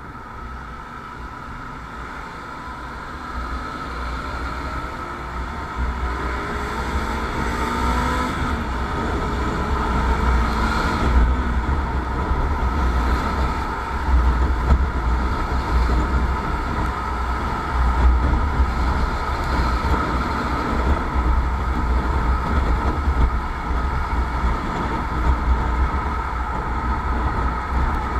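Motorcycle riding, its engine pitch rising as it speeds up over the first several seconds, with heavy wind rumble on the microphone.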